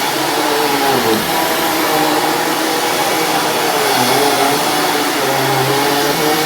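Dirt Devil Ultra Vision Turbo upright vacuum cleaner running steadily, its motor pitch wavering as it is worked back and forth. The pitch dips briefly about a second in.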